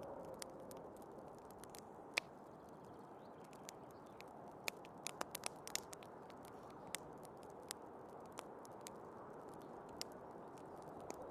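Wood fire crackling, with scattered sharp pops (a cluster about five seconds in, the loudest about two seconds in), over a steady low rushing of snowstorm wind.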